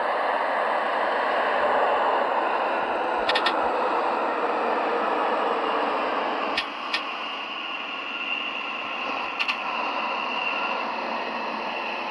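Seoul Metro Line 2 subway train running along the track, a steady rumble of wheels on rails with a few sharp clicks. About six and a half seconds in it drops in level, and a thin high whine comes in and fades.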